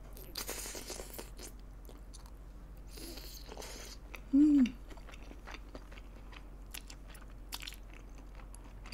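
Close-miked biting and chewing on a soy-glazed grilled chicken drumstick, with scattered small clicks and soft noisy mouth sounds. A short hummed "mm" a bit before halfway is the loudest sound.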